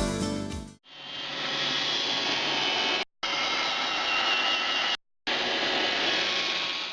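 Background music ends within the first second. Then an iRobot Roomba 530 robot vacuum runs with a steady whirr and a high whine, cut off abruptly twice for a moment.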